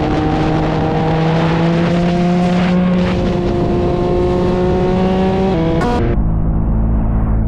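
Motorcycle engine pulling under steady throttle, its pitch climbing slowly for about five seconds and then dropping sharply. Just after, a lower, steady engine drone sets in over a low wind-like rumble.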